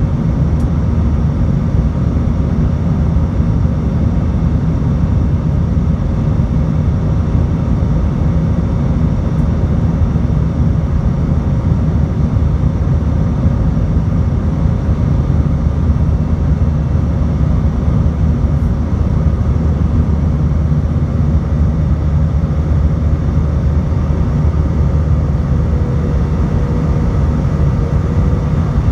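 Airbus A319 cabin noise heard from the exit row: the jet engines and rushing air make a steady, loud low rumble with a few faint steady tones, and a faint wavering tone comes in near the end.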